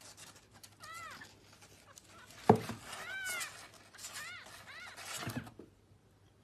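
A cat meowing several times, short calls that rise and fall in pitch. A sharp knock about halfway through is the loudest sound, and it all stops shortly before the end.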